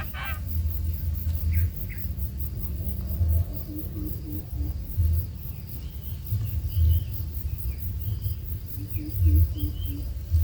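Insects trilling in a fast, even pulse, with a few short bird-like chirps and small groups of low notes, over an uneven low rumble with several louder bumps.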